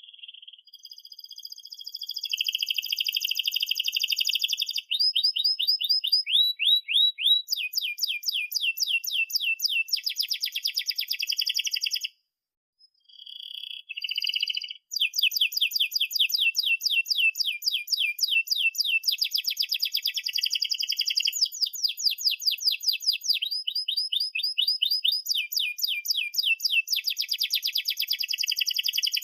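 Domestic canary singing a long song of fast trills, or rolls, switching from one run of repeated notes to another every few seconds, with a short break about twelve seconds in.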